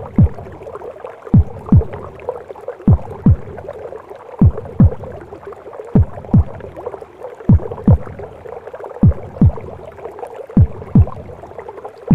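Recorded heartbeat in slow lub-dub pairs of deep thumps, about one pair every second and a half, over a muffled watery whooshing that imitates sound inside the womb.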